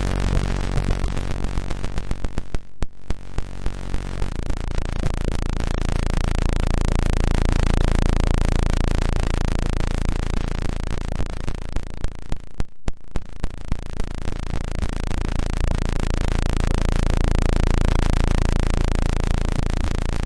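Electronically generated tones and noise from a frequency generator: a dense synthesized drone that pulses about three times a second in places and cuts out briefly twice.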